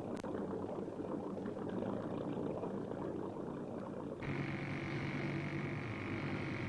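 Steady background hum and hiss with no distinct events; about four seconds in its tone changes abruptly, as a new steady hum sets in.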